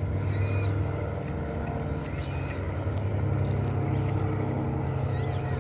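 Waterbird chicks giving short, high begging peeps, four of them spread across a few seconds, over a steady low engine hum.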